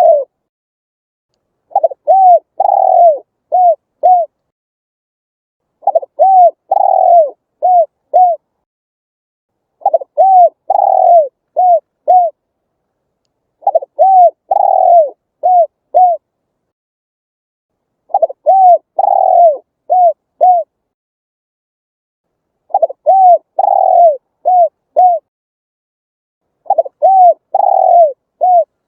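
Spotted dove cooing: a full phrase of four or five low, arched coo notes repeated about every four seconds, seven times, with silent gaps between phrases.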